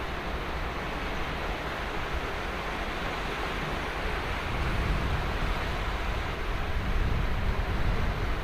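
Ocean surf breaking and washing on a sandy beach, a steady rush of waves that swells a little about halfway through, with some wind rumble on the microphone.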